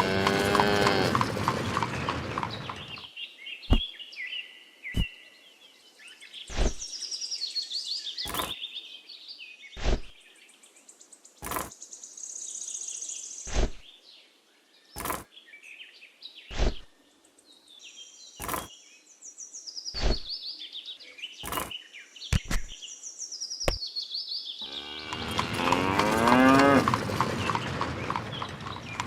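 A cow mooing, once at the start and again near the end, with birds chirping between the calls. About every second and a half there is a sharp knock.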